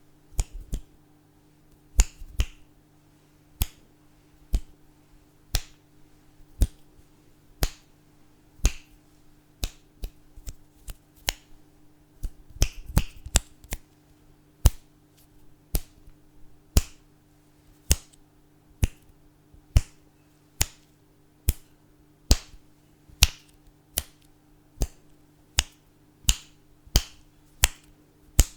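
Fingers snapping for ASMR, crisp single snaps at about one a second, with a quicker flurry of snaps around the middle.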